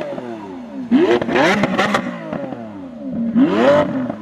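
A supercar engine revved hard twice, each blip sweeping quickly up in pitch and falling away, with sharp crackles after the first.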